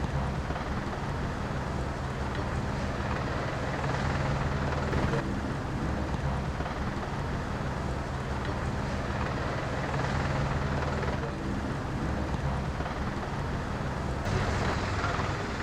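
Helicopter running steadily, its engine and rotor giving a constant low drone.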